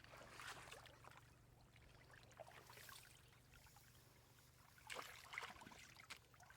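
Faint water sloshing and splashing, with two brief, somewhat louder splashes, one early on and one about five seconds in.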